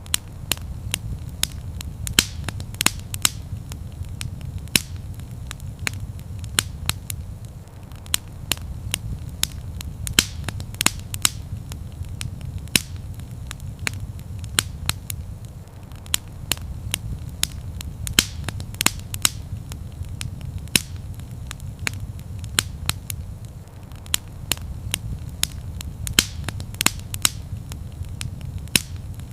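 Fire crackling in a fireplace: irregular sharp pops and snaps, about two a second, over a steady low rumble of the flames.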